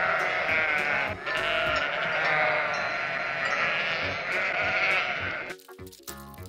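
Several sheep bleating, their calls overlapping almost without a break. About five and a half seconds in the bleating stops and light music with short repeated notes takes over.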